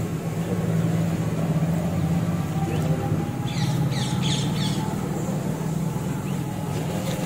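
A bird calling a quick run of four or five high, downward-sliding chirps about three and a half seconds in, over a steady low hum.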